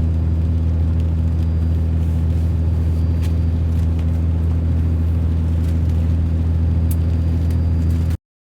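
Vehicle engine running steadily with a low, even drone and a couple of faint clicks; it cuts off abruptly near the end.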